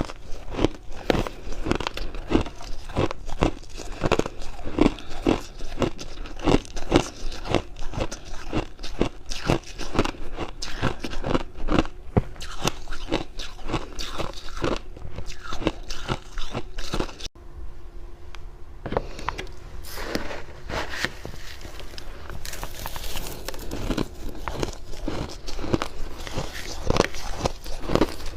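Freezer frost being bitten and chewed close to the microphone: a steady run of dry crunches, about two a second, that breaks off briefly a little past halfway and then resumes.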